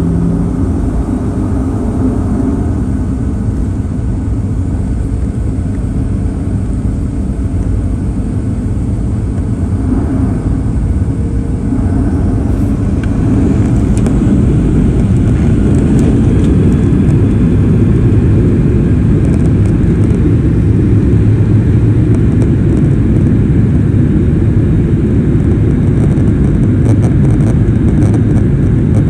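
Boeing 737-700's CFM56-7B jet engines: a loud, steady low rumble that grows louder about twelve seconds in and then holds.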